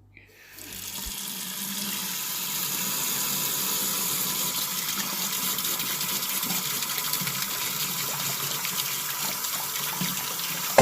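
Steady rushing noise like running water, fading in over about two seconds, then holding even until it cuts off abruptly.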